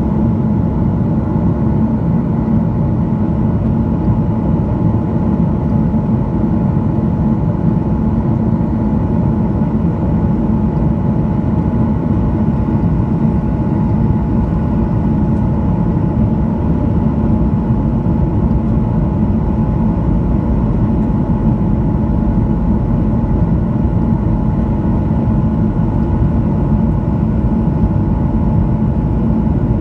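Steady drone of a Boeing 737-900ER heard from inside the passenger cabin in flight: the CFM56-7 engines and airflow give a low, even rumble with a faint constant hum above it.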